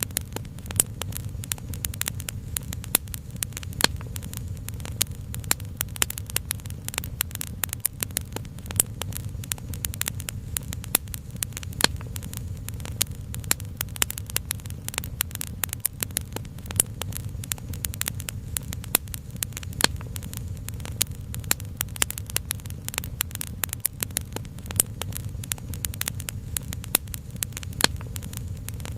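Wood fire crackling with many small, sharp, irregular pops over a steady low rumble.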